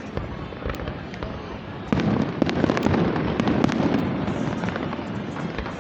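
Fireworks display: a continuous rumble of shell bursts, jumping suddenly louder with a big burst about two seconds in, then a dense run of crackling pops for about two seconds before easing off.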